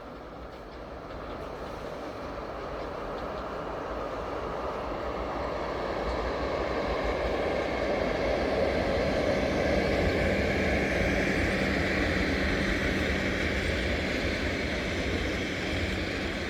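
CFR Regio passenger train rolling along the track, its rumble growing steadily louder over the first ten seconds or so, then easing off a little.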